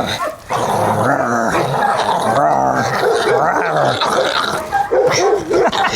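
Dog growling loudly and continuously during a tug-of-war game on a frisbee, with short breaks near the end; it is play growling from a dog highly ramped up, not aggression.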